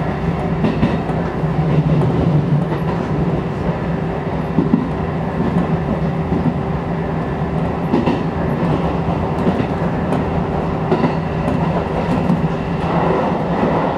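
Shin-Keisei electric commuter train running along the line, heard from inside the front car: a steady hum of the running gear and motors under continuous rolling noise, with occasional clicks of the wheels over rail joints.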